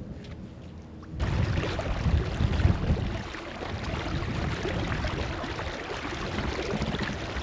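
Wind buffeting the microphone over choppy water, cutting in suddenly about a second in and then running on steadily.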